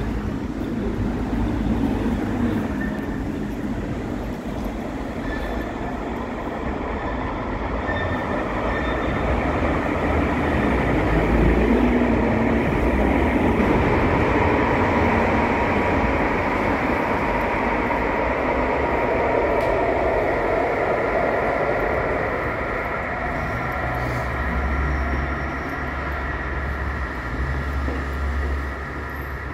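Light-rail (Stadtbahn) train running through the station: a steady rumble of wheels and motors that swells in the middle and eases off toward the end.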